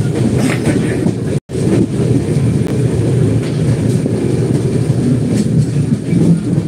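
Passenger train running at speed, heard from on board: a steady low rumble of wheels on the track. The sound cuts out completely for an instant about a second and a half in.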